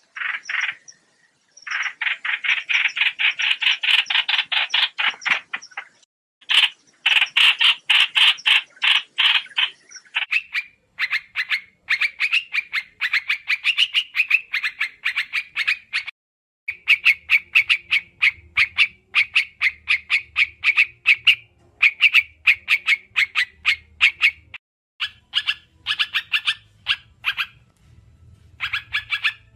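Recorded calls of the trao trảo bird, played as a trapping lure: long runs of rapid, evenly repeated chattering notes broken by short pauses.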